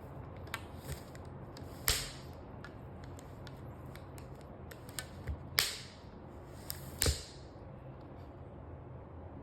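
A rubber band wrapped around a book snapping back against it as a cat pulls at it: three sharp snaps, with fainter ticks in between.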